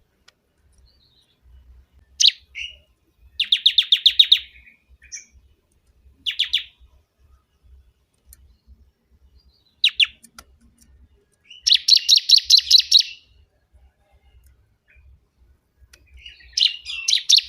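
Bar-winged prinia singing loudly: single sharp chirps alternate with fast runs of repeated high notes, about ten a second.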